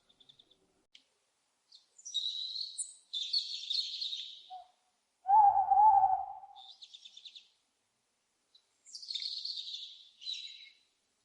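Small songbirds chirping in three quick bursts of high notes. In the middle comes one louder, lower, drawn-out owl call, preceded by a short note.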